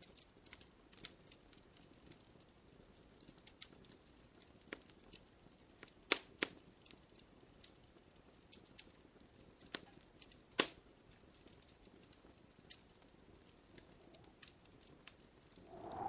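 Wood fire crackling in a fireplace: irregular sharp pops and snaps over a faint hiss, with a few louder cracks about six seconds in and again near the middle.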